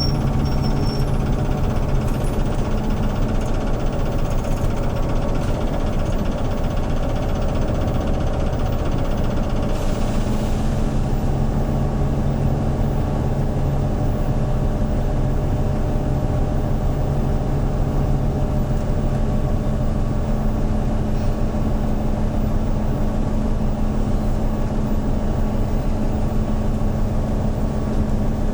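Hyundai New Super Aero City CNG city bus engine running steadily, a low drone with two held tones. A faint hiss above it stops sharply about ten seconds in.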